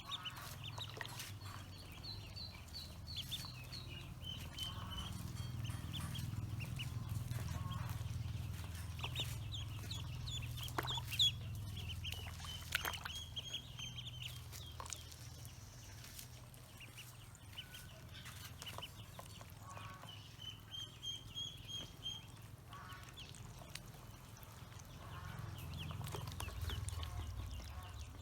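Pekin ducklings peeping in runs of short high-pitched chirps, with scattered sharp clicks and a low rumble underneath.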